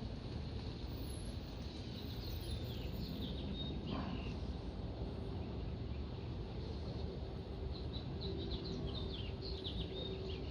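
Small birds chirping in two spells of quick, high calls over a low, steady rumble. A faint, steady hum comes in about halfway through.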